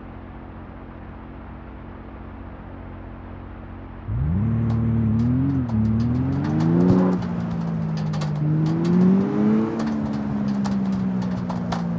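Toyota GR86's 2.4-litre flat-four engine running with a steady low hum, then about four seconds in it accelerates hard. The revs climb with a couple of short dips, climb again, and then ease off slowly to a steady run.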